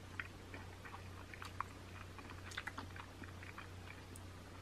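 Soft, wet chewing and small sticky clicks of sauce-covered buffalo chicken wings being eaten by hand, over a low steady hum.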